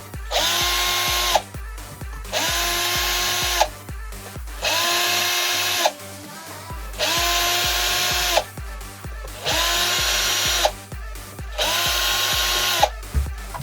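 An electric motor run in six short bursts of about a second each, its whine rising, holding steady and dropping away each time, with a loud rasping noise over it. A steady electronic music beat runs underneath.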